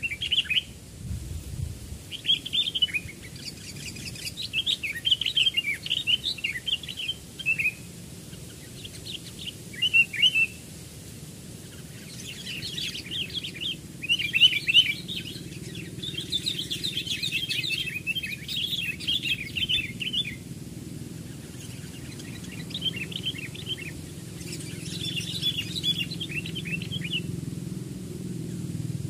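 Sooty-headed bulbuls (kutilang) chirping in repeated bursts of quick, chattering notes with short pauses between, over a faint low rumble that grows slightly toward the end.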